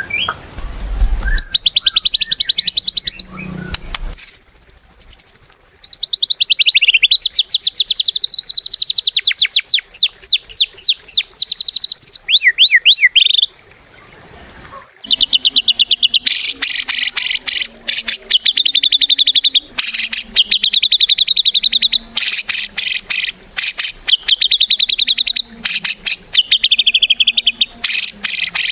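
White-rumped shama (murai batu) singing loudly: varied whistled phrases and fast sweeping trills, then, after a brief pause about halfway through, long runs of rapid repeated notes.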